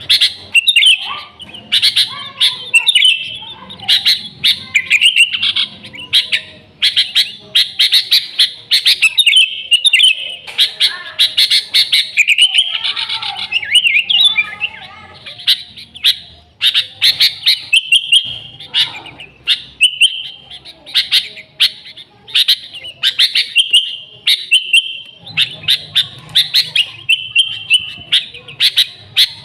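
Sooty-headed bulbul (kutilang) singing continuously and loudly: a dense run of quick chirps and short whistled phrases with hardly a pause.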